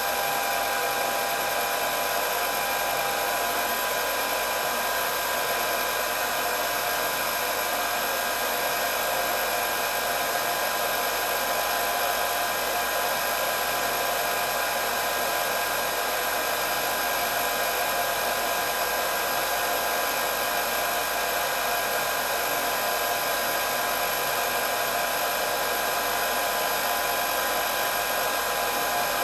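Hair dryer running steadily: an even rush of blown air with a few steady whining tones from the motor over it, unchanging throughout.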